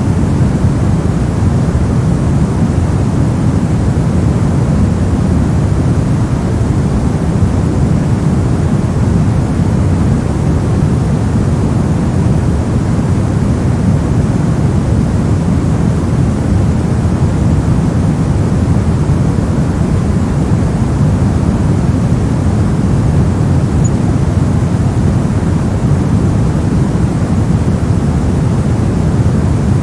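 Steady synthetic noise from a sleep white-noise track, deep in tone, with most of its weight in the low range.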